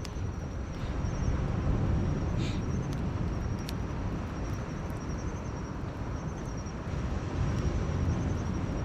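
Campfire crackling with a few sharp pops, over a steady low rumble. High, pulsing insect chirps run behind it.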